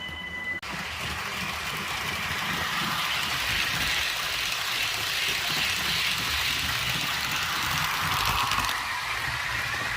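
REE model TGV train running on its track, a steady rushing noise that swells and then eases off a little near the end.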